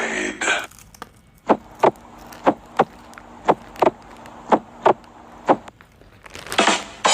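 Sound effect of sharp wooden knocks, coming in pairs about a third of a second apart, roughly one pair a second, ending with a single knock and then a short scraping burst near the end.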